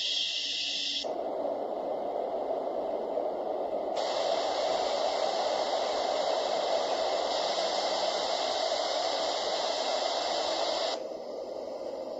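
Dreamegg Pocket Sleep 1 mini white noise machine playing steady noise and switching between sound settings. A high hiss gives way to a lower noise about a second in, a brighter hiss joins it at about four seconds, and near eleven seconds it changes to a quieter, different noise.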